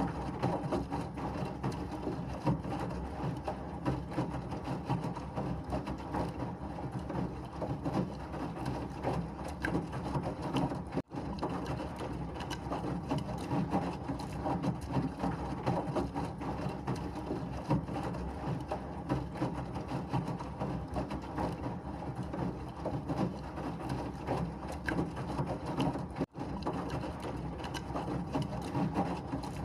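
Washing machine running, a continuous churning, rattling mechanical noise from the turning drum, with two momentary dropouts about 11 and 26 seconds in.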